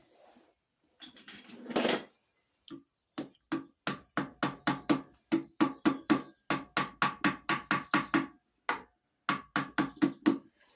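Hammer blows on metal, a long series of sharp taps at about three a second with a short break near the end, after a brief scuffle of handling about a second in.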